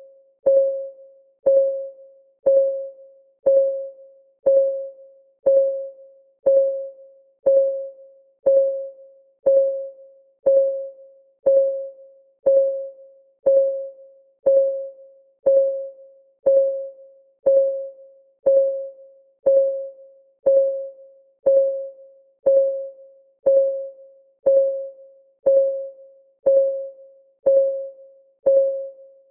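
Clock-ticking sound effect of a countdown timer: an even tick once a second. Each tick is a short, mid-pitched tock that rings briefly and fades.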